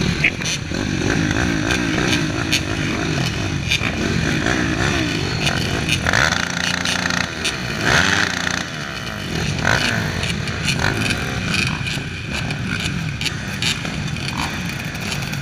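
A pack of motocross bikes running and revving together at a race start, several engine notes rising and falling with the throttle over one another. A louder single engine note sweeps in pitch about six to eight seconds in.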